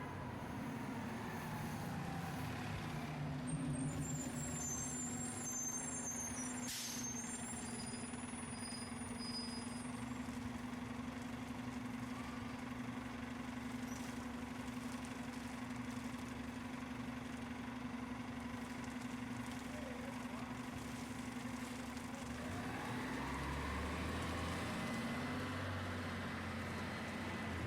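City street traffic dominated by a heavy vehicle's engine running with a steady hum, with high squeaks about three to ten seconds in and a sharp click. Near the end the engine pitch rises as it pulls away.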